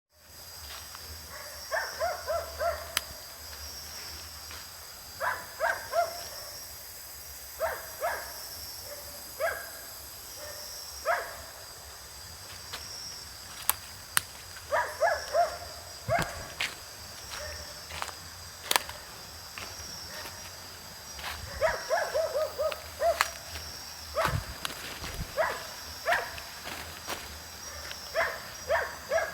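A steady insect chorus with a pulsing high trill, over which an animal gives groups of short, quick calls every couple of seconds. Scattered sharp clicks run throughout.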